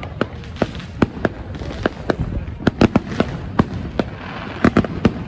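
Fireworks going off in quick succession: a rapid, irregular string of sharp bangs and pops, several a second, over a continuous crackling haze. A cluster of louder bangs comes near the end.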